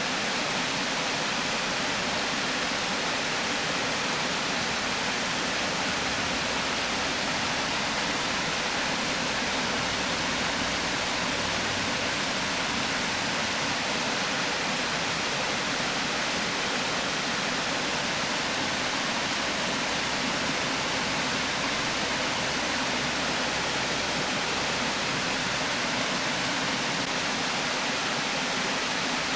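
River water pouring steadily over a weir, a constant rushing with no breaks or changes.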